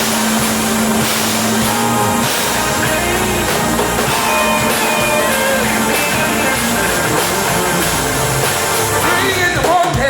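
A band playing rock-style music, a busy instrumental passage with a wandering melodic line on top at a steady, loud level.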